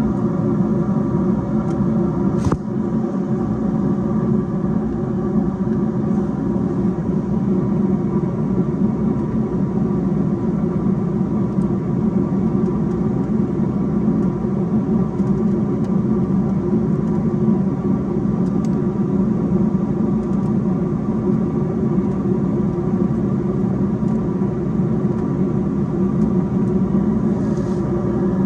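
American Standard gas furnace running steadily on high fire on LP gas: a constant rumble of burner and motors with a steady hum. One faint click about two and a half seconds in.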